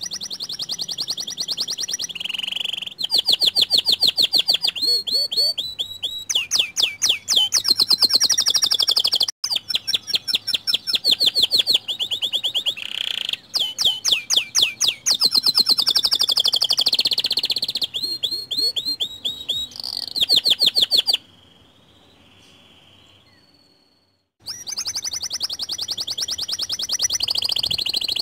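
White domestic canary singing a long, varied song of rapid trills and rolls. The song breaks off for about three seconds near the end, then starts again.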